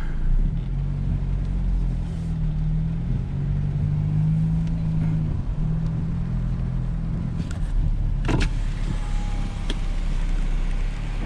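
Car engine and road noise heard from inside the cabin while driving: a steady low drone with a hum that shifts slightly in pitch. A short knock about eight seconds in.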